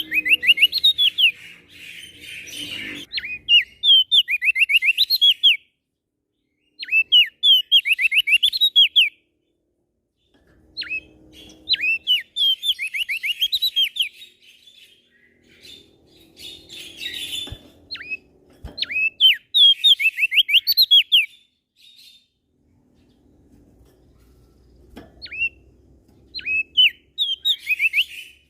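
Prenjak daun songbird singing: repeated phrases of quick, high, sharply sliding chirps, each phrase a second or two long, with short pauses between them.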